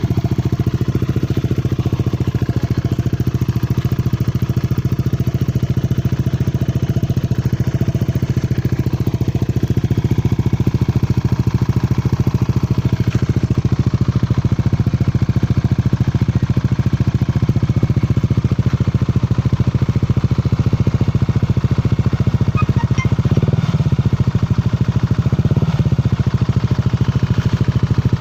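Yamaha NMAX scooter's single-cylinder four-stroke engine idling steadily through a 7RH Racing aftermarket muffler, a mellow exhaust note meant to stay street-legal. There are two brief swells in the sound near the end.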